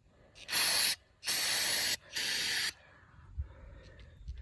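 Aerosol cleaner spraying in three short hissing blasts to clean out a small-engine carburetor's rusty mixing chamber, followed by faint knocks of parts being handled.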